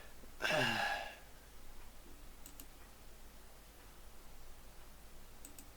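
Quiet room with a short vocal sound, falling in pitch, about half a second in, followed by a few faint, sharp clicks.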